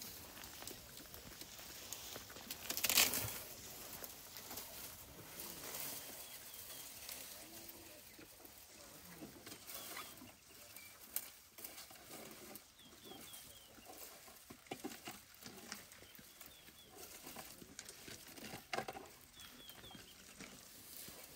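Rustling and cracking of branches and leaves as elephants browse, with a louder rustle about three seconds in. Faint short bird chirps come now and then.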